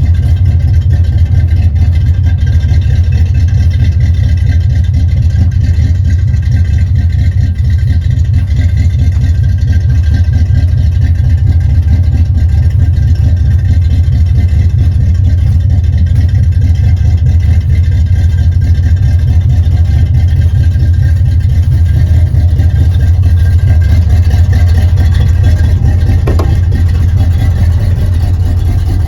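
1978 Chevrolet El Camino's engine, fitted with an aftermarket cam and no choke, idling steadily just after a 16-degree cold start.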